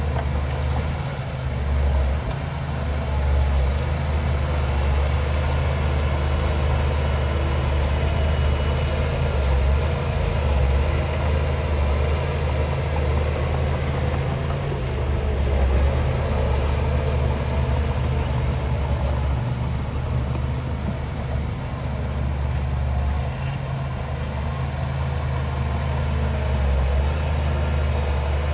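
Heavy diesel engine of earthmoving machinery running steadily with a deep, low hum.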